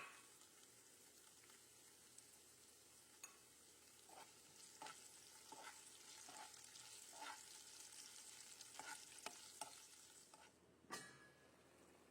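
Food sizzling in a pan while a spoon stirs it, with a run of scraping strokes through the middle. A clank comes near the end, and the sizzling then falls away.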